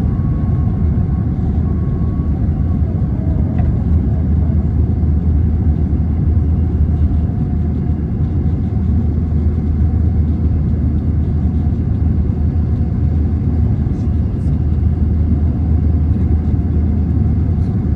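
Steady low rumble of engine and airflow noise inside the cabin of an Airbus A321 airliner, holding even throughout.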